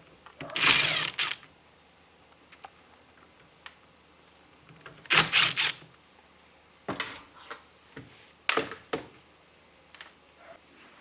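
Hand tools working on the cast metal brake master cylinder as its cover bolts are taken off: a few short bursts of ratchet-like clicking and metal clinks, with quiet gaps between.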